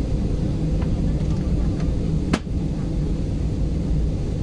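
Steady low rumble of an airliner's engines heard from inside the passenger cabin before takeoff, with one sharp click about two and a half seconds in.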